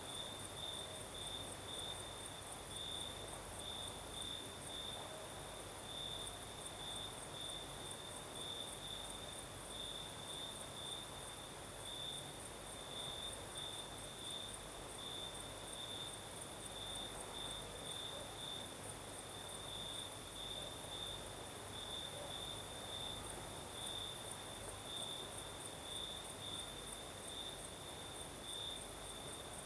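Crickets chirping at night: a steady, regularly pulsing chirp, with a higher, faster trill of more insects above it.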